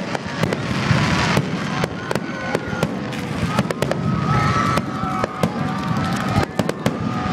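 Aerial fireworks display: a rapid, continuous series of sharp bangs and crackling reports.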